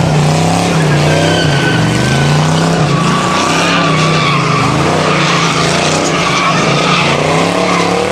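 American V8 engine held at high revs during a burnout, its note rising and dipping, with the tyres squealing over it.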